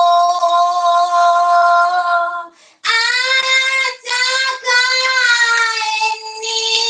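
A high voice singing long held notes with no instruments showing. There is a short break about two and a half seconds in, and the voice comes back on a higher note.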